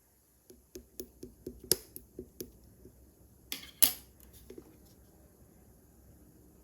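A series of small clicks and soft taps, about two or three a second, then two louder crackling clicks about three and a half seconds in.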